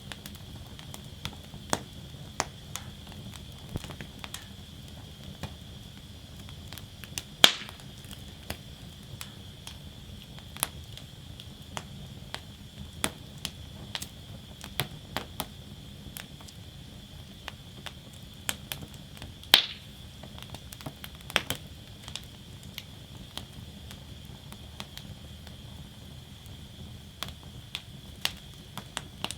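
Wood fire crackling in a fire basket: a steady low rumble and hiss with frequent sharp crackles, and two louder pops, one about a quarter of the way in and one about two-thirds in.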